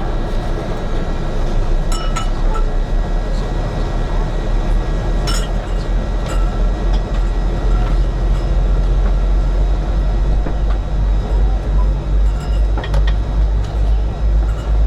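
Airbus A380 cabin noise: a steady low rumble, with a few light clinks and clicks scattered through it.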